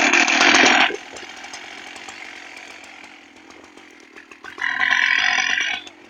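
Chainsaw at high revs that drops to idle just under a second in, idles for about three and a half seconds, then is revved up again for about a second before falling back to idle.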